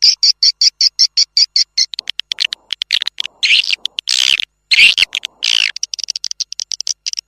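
Recorded swiftlet calls played as a house lure: rapid chirps at about eight a second, broken from about two seconds in by several longer, louder buzzing twitters, after which the rapid chirping resumes.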